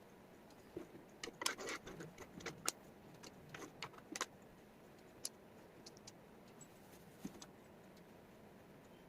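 Wooden jigsaw puzzle pieces clicking and rattling as they are handled and set down. There is a quick flurry of clicks in the first half, then a few scattered single taps.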